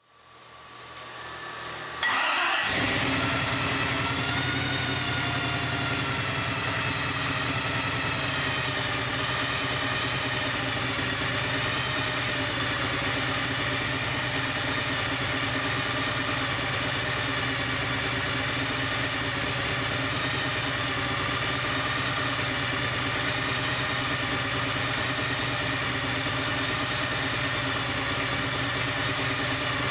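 Supercharged Chevrolet 350 small-block V8 cranking briefly, firing about two seconds in, then settling into a steady idle.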